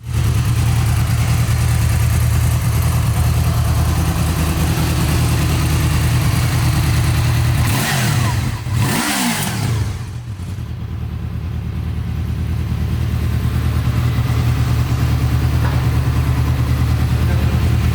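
Honda Crossrunner 800's V4 engine idling steadily, revved twice a little before halfway, with the pitch rising and falling each time before it settles back to idle.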